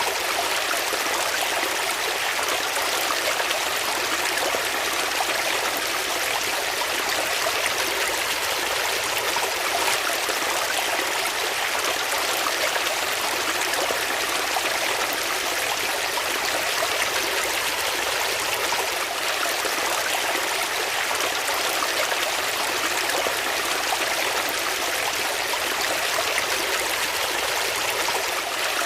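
Water flowing steadily in a stream, an even rushing sound that does not change.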